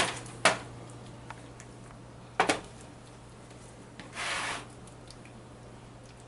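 Kitchen handling sounds as a baking pan of seasoned poultry is moved and set down: sharp knocks at the start, about half a second in and a double knock about two and a half seconds in, then a short rustle a little after four seconds, over a low steady hum.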